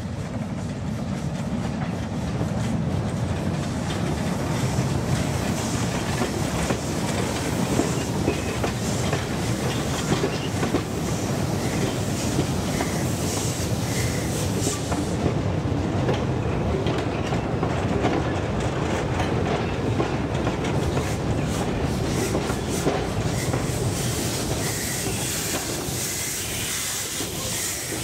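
Narrow-gauge goods wagons rolling past close by, wheels clicking over the rail joints over a steady rumble, ending with the passing 040 Franco-Belge steam tank locomotive that propels them. Faint, brief wheel squeals come now and then.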